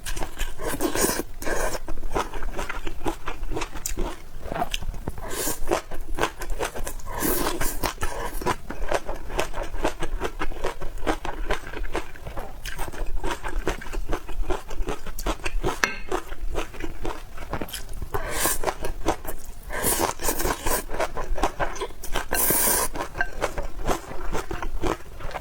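Close-miked eating sounds: dense wet chewing clicks and crackles, with several longer noisy bursts such as slurps or scrapes scattered through.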